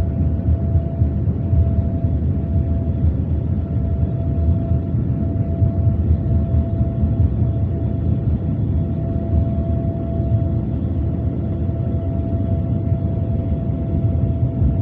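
GE GEnx engines of a departing Boeing 787-10 jet airliner, a steady low rumble with a faint steady whine over it.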